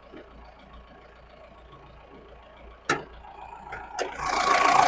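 Mahindra Scorpio S3's diesel engine idling faintly. Just under three seconds in, the bonnet latch releases with one sharp click. Near the end the engine noise rises and becomes much louder as the bonnet is lifted.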